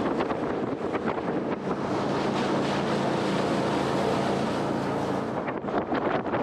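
Jet boat under way: its engine running steadily beneath loud wind rushing over the microphone and the hiss of water, with gusts buffeting near the end.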